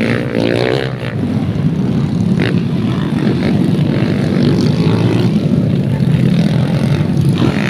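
Dirt bike engines running at race speed in a steady drone.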